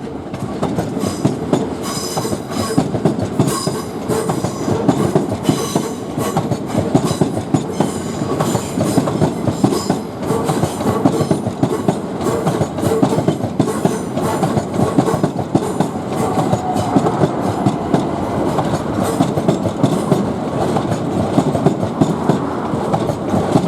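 Class 387 and Class 455 electric multiple-unit trains rolling in toward the terminus, wheels clattering steadily over the track with a fast run of clicks over a low rumble. A faint high wheel squeal comes in about two to four seconds in.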